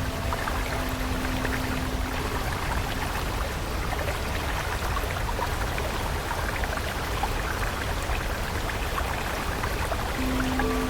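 Running water of a stream, a steady rush with fine trickling and splashing. Soft held music tones fade out about two to three seconds in, and new ones come in near the end.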